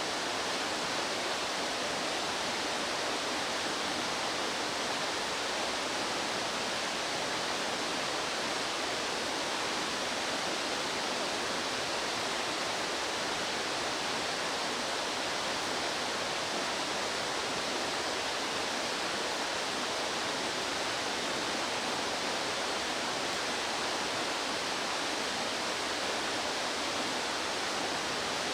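Rushing stream water, a steady, unbroken rush.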